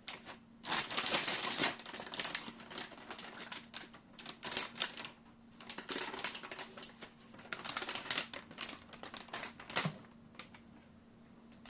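Plastic packaging around a computer motherboard crinkling and rustling in several bouts, with small clicks, as it is handled; it dies down near the end.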